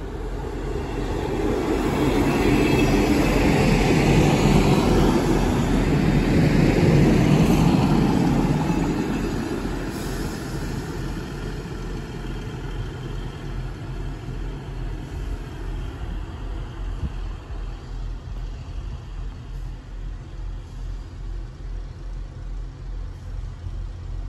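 Class 158 diesel multiple unit passing close by: its underfloor diesel engines and its wheels on the rails rise to their loudest about two seconds in and fade away by about ten seconds in. A fainter sound with a regular pulse, about once a second, carries on after it.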